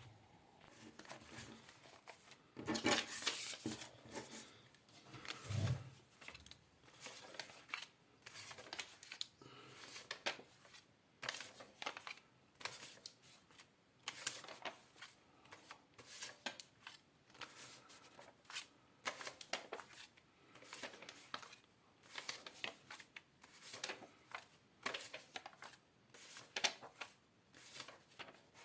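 Paper banknotes being handled and flicked through: irregular crisp rustles and snaps, a few louder ones near the start.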